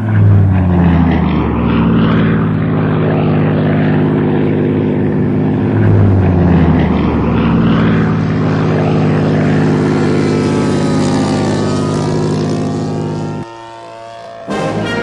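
Propeller-driven model warplane engine running loudly as it flies past, its pitch bending on two passes about six seconds apart; the sound cuts off abruptly near the end.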